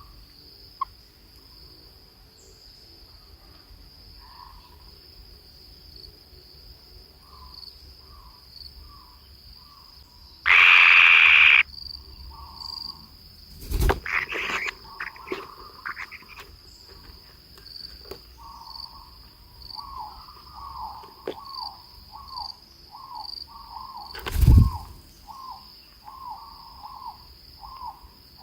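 Steady high insect trill with short calls repeated a few times a second, most of them in the second half. About ten seconds in comes a loud harsh burst lasting about a second, and two sharp thumps follow later.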